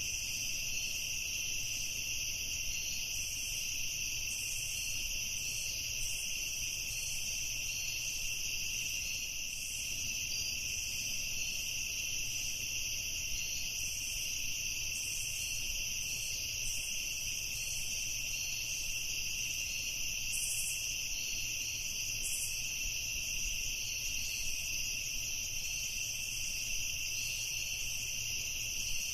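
Evening chorus of crickets and other insects: a steady, high-pitched chirring that never lets up, over a faint low rumble.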